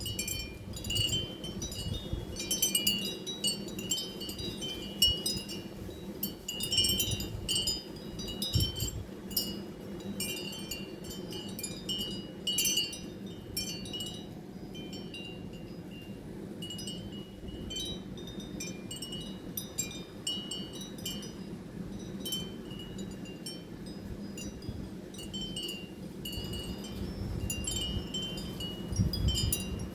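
Wind chimes tinkling in irregular, scattered strikes, with occasional low rumbles underneath.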